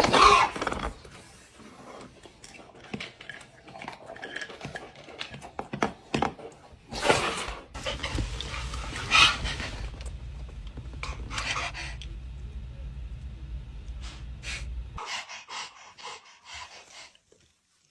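Panting in repeated breathy bursts, with a low steady hum underneath from about halfway through until near the end.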